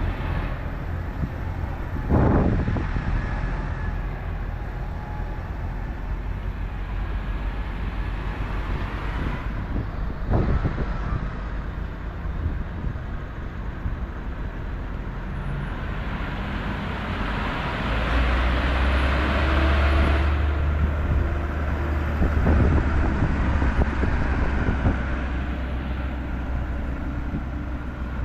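Tractor diesel engines running past along a road amid traffic noise. Two short sharp sounds come in the first half, and a louder, deep engine rumble passes close for several seconds in the second half.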